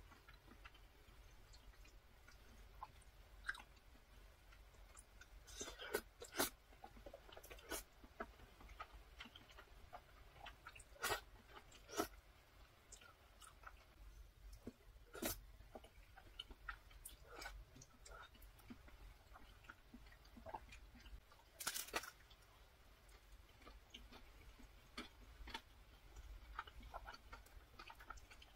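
Quiet close-miked eating sounds of myeongran (pollock roe) cream pasta being eaten with chopsticks: soft chewing with scattered sharp clicks, a few of them louder.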